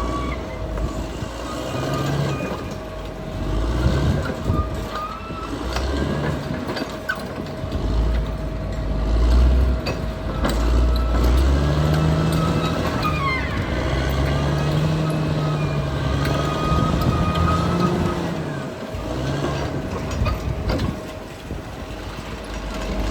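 Caterpillar D6R XL bulldozer's diesel engine working, its pitch rising and falling as the load changes.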